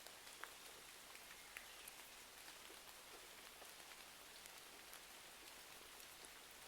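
Faint steady rain, with scattered sharp crackles of a wood fire, the loudest about half a second in.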